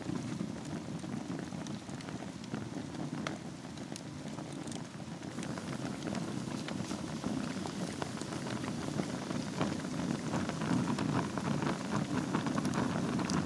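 Wood fire burning in a fireplace: a steady low rush of flame with frequent crackles and sharp pops, the crackling growing denser in the second half.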